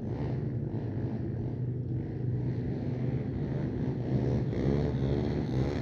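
Stunt motorcycle engine running and revving up and down, with a rise in revs in the second half.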